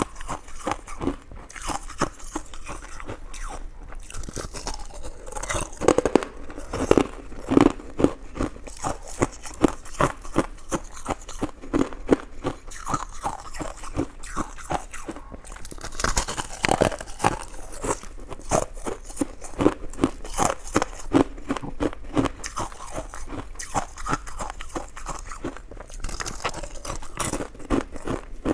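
Close-miked eating: a coconut-coated sticky rice cake being bitten and chewed, a steady run of quick wet clicks and crunching mouth sounds with a few louder bites.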